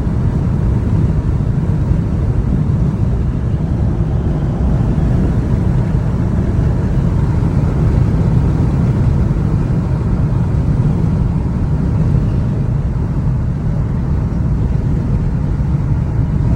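Steady road and engine rumble inside the cab of a moving Toyota Tundra pickup, a constant low drone with no change throughout.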